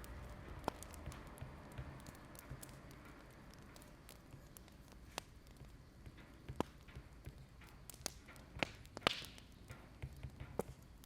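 Wood fire crackling: irregular sharp pops and snaps over a low steady rumble, one louder pop with a short hiss about nine seconds in.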